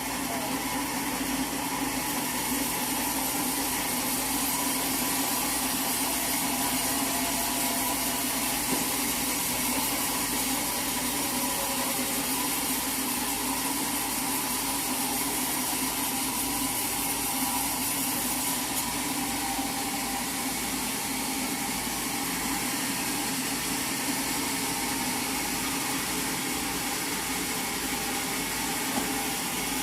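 Sawmill machinery running steadily, a constant motor noise with no distinct cuts, strikes or changes in pitch.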